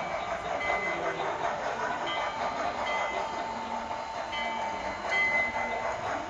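Two HO scale model steam locomotives with Tsunami 2 sound decoders running, their speaker sounds mixed with the wheels rolling on the track. The running noise is steady, with brief high tones now and then.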